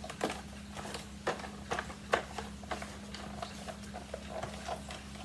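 Irregular light clicks, taps and rubbing of a Vorwerk hard-floor vacuum nozzle being handled and wiped clean, over a steady low hum.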